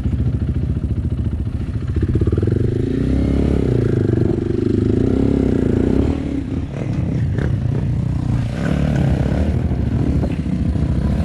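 Off-road motorcycle engine running under throttle. It revs up and holds a wavering higher pitch for a few seconds, then drops back about six seconds in, with some knocks and clatter.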